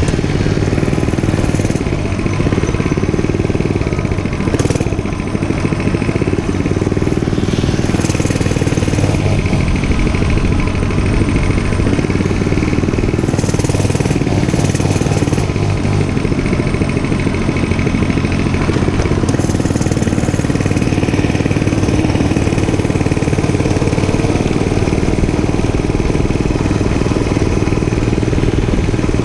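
Dirt bike engine running steadily and loudly while being ridden.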